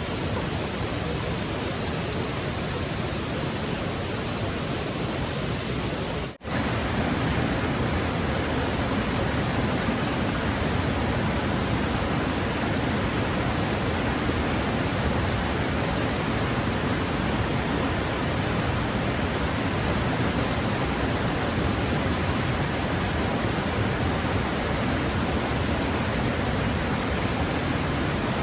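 Stream water rushing steadily, with a brief break about six seconds in.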